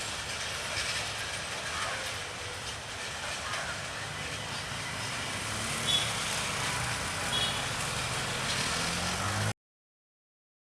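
Steady running noise of a train moving through the station, with people's voices mixed in and a couple of short high squeaks. It stops abruptly about nine and a half seconds in.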